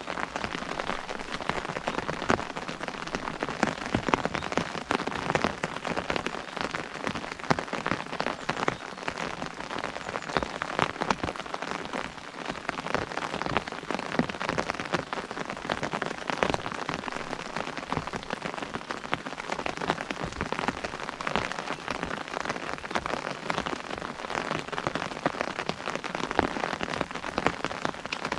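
Rain falling steadily on an umbrella: a dense patter of drops striking the canopy, with many small individual taps.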